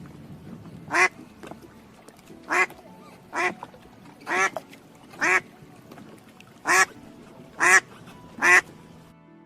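Duck quacking: eight short, separate quacks, roughly one a second.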